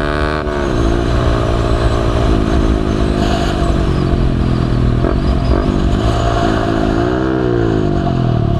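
Motorcycle engine heard from the onboard camera on the bike, mostly off the throttle: its pitch drops sharply about half a second in, sinks slowly through a long bend, then rises briefly and falls again near the end.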